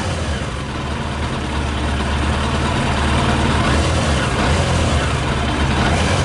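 Yamaha YZF600R's carburetted inline-four engine idling steadily while running on 40% whisky in place of petrol.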